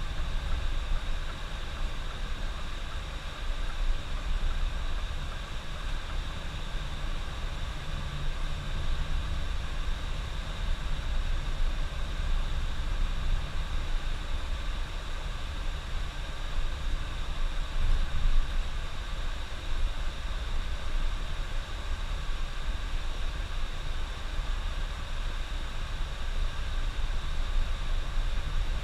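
Bus driving at road speed, a steady engine and road rumble heard from inside the cab.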